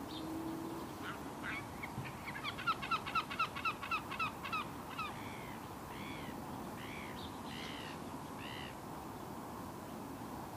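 Birds calling: a fast run of about a dozen short calls, about five a second, then five slower calls that each rise and fall in pitch, over a steady outdoor background.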